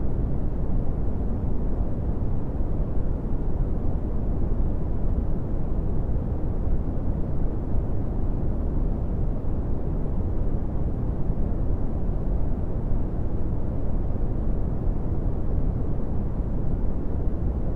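Brown noise: a steady, deep rumbling hiss with most of its energy in the low end and little treble, unchanging throughout.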